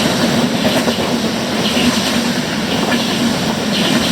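A train running through the station, a steady rumble of wheels on rail with a regular clatter about once a second as the wheels cross rail joints.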